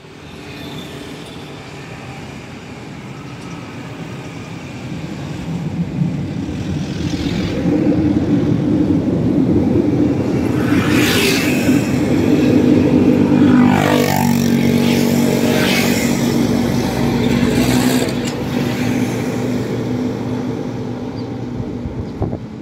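LRTA Class 1200 light-rail train passing over a viaduct: a steady motor hum and wheel noise that grows louder, peaks in the middle with a falling whine just past the halfway point, then eases off.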